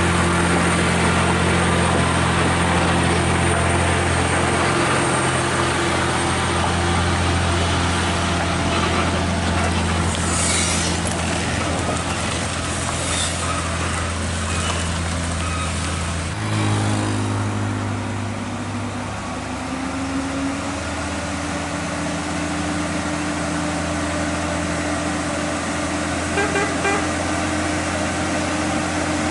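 Heavy truck's diesel engine running steadily, its pitch dropping and settling about halfway through.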